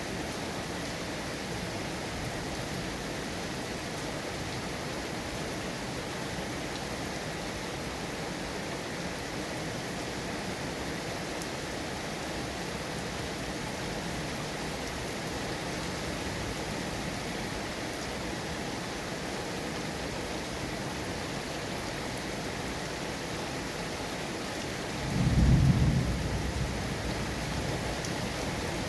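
Steady heavy rain falling, with one deep rumble of thunder near the end that swells suddenly and then fades away.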